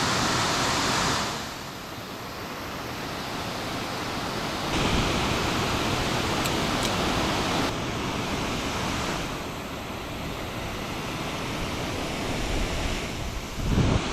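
Steady rush of fast-flowing creek water below a dam, shifting in level abruptly a few times, with low wind thumps on the microphone near the end.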